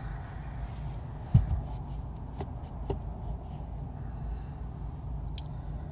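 Steady low road and engine rumble inside a moving car's cabin, with a single thump about a second and a half in and a few light clicks after it.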